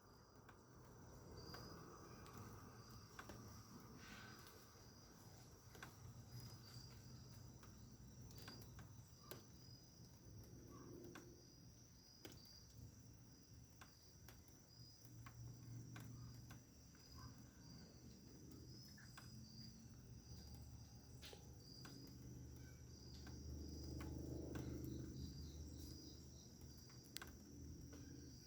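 Faint chorus of crickets: a steady high trill with short chirps repeating evenly. A low rumble swells up about three-quarters of the way through, and a few faint clicks are scattered throughout.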